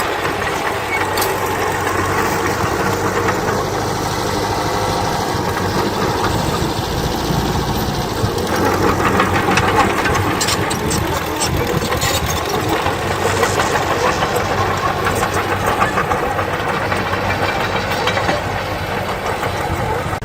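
Diesel engines of a bulldozer and dump trucks working, running steadily; from about eight and a half seconds in the sound grows louder, with rattling and clattering over the engine noise.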